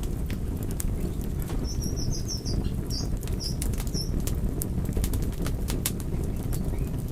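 Wood fire burning: a steady low rumble with many sharp crackles and pops. Around the middle, a short run of about eight high, brief chirps.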